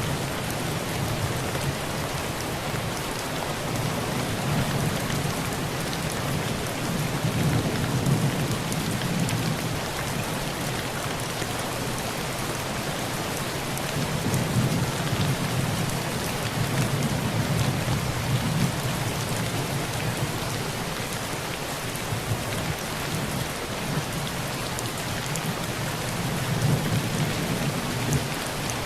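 Heavy rain falling steadily on a thin tin roof, a dense even patter, with low thunder rumbling underneath that swells and fades several times.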